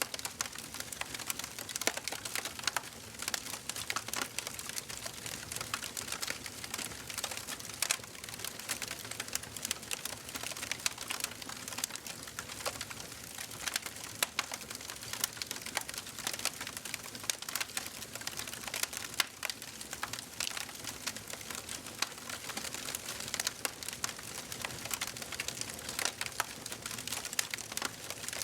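Wood fire burning in a fireplace: a steady soft hiss under irregular sharp crackles and pops.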